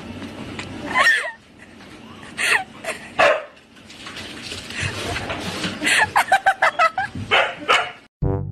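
Siberian husky barking in short separate calls, with a quick run of calls about six seconds in. A brass tune cuts in at the very end.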